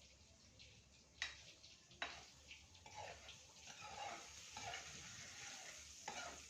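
Faint sizzling of seasoning frying in a pan, with a few sharp clinks of a spatula against the pan about a second in, two seconds in and near the end.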